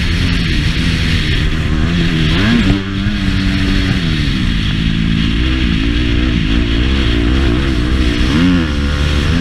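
Motocross bike engine running hard, its pitch climbing and falling with the throttle and a sharp drop about three seconds in, over a steady rush of wind noise.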